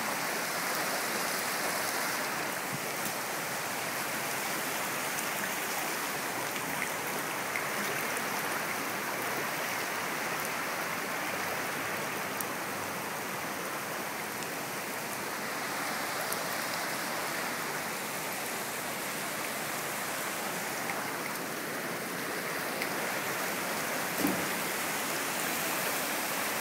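Floodwater rushing steadily, an even, unbroken wash of water noise. A single short knock sounds near the end.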